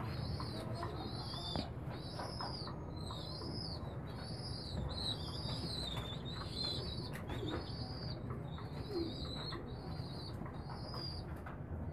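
A bird chirping over and over in a steady series of short, high-pitched arched chirps, about one and a half a second, over a faint low hum.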